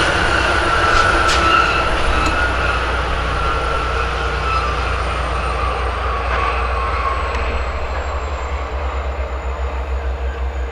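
LIRR diesel train of C-3 bilevel coaches with a DE30AC diesel-electric locomotive: steady rail rumble with a high whine slowly falling in pitch, gradually fading as the train moves away.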